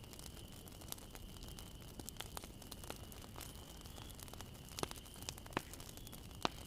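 Bonfire burning with a low steady rumble and scattered sharp crackling pops, the loudest two near the end.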